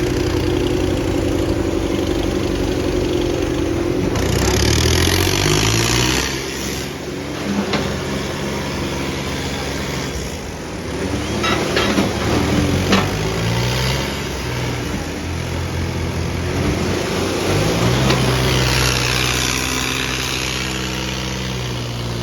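Diesel tractor engines running hard under load in a tractor tug-of-war, their pitch rising and falling as they are revved. A few sharp clicks come about halfway through.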